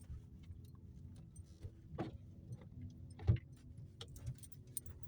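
Car cabin noise while driving on a snowy street: a steady low engine and road rumble, with small rattles and two sharp knocks, the second and louder about three seconds in.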